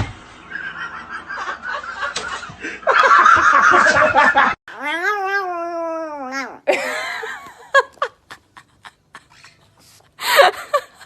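People laughing, then, after a sudden cut about halfway through, one long animal call that rises and then falls, lasting about two seconds. Scattered taps and clicks follow, with a short loud burst near the end.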